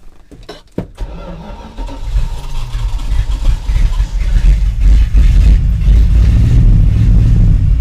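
1984 Dodge Ram's carbureted engine starting about a second in and building up to a loud, steady run over the next few seconds. It is running only 'running-ish': the truck has a problem of stalling suddenly, which the owner puts down to a mix of poor fuel delivery and an electrical fault.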